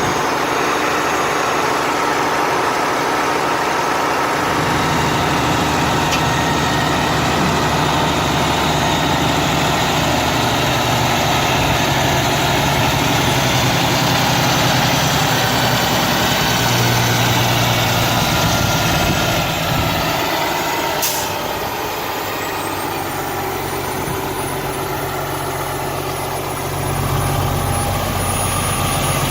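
Kenworth T800 hydro-excavator truck running, its Cummins ISX15 diesel engine and equipment giving a constant loud mechanical din. A sharp click about 21 seconds in, after which a faint high whine rises and then holds.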